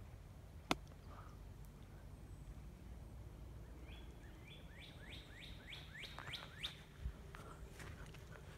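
A songbird sings a quick run of about ten down-slurred notes, each falling steeply in pitch, over a faint low rumble. A single sharp click, the loudest sound, comes just under a second in, and a few softer clicks and a thump follow the song.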